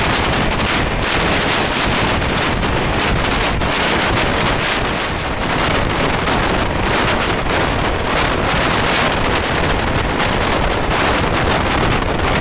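Express passenger train running at speed: a loud, steady rush of wind on the microphone with the running noise of the coach.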